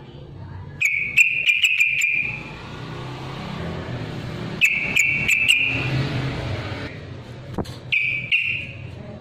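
Yellow-vented bulbul (trucukan) singing: three bursts of quick chattering notes, each about a second long, near the start, in the middle and near the end.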